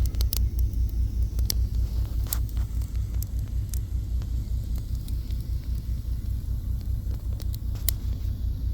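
Campfire of burning sticks crackling, with scattered sharp pops, under a heavy, pulsing low rumble.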